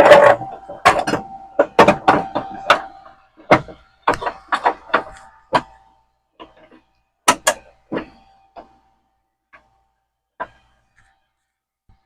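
Hammer blows on a steel motor mount bracket: irregular sharp strikes, each leaving a brief metallic ring, coming thick for about six seconds and then thinning to a few light taps.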